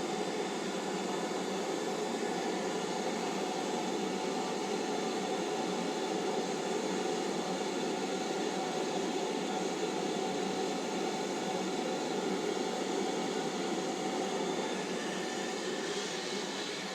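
Steady noise of a train, a continuous hiss with faint constant humming tones, level and unchanging.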